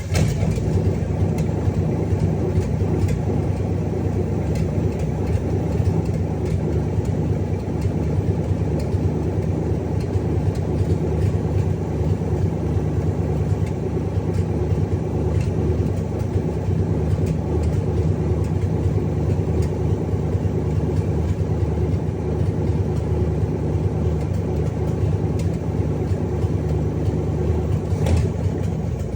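Freshly rebuilt Cadillac 500 cubic-inch V8 idling steadily just after start-up, with an even pitch and no revving.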